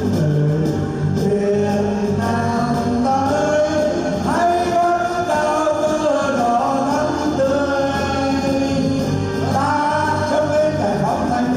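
A song performed with singing over instrumental accompaniment, the sung melody coming in about two seconds in over a steady bass line.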